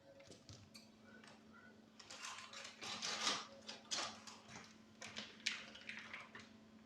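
Kitchen handling sounds: a run of light clicks, clinks and rustles, busiest in the middle, over a faint steady hum.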